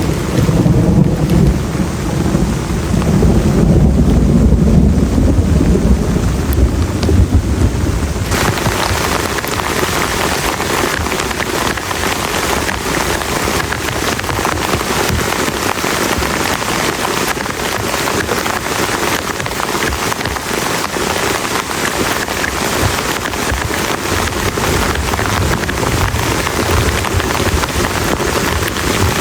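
Heavy rain with a long, low rumble of thunder through the first eight seconds or so. The rumble then gives way abruptly to a dense, steady downpour.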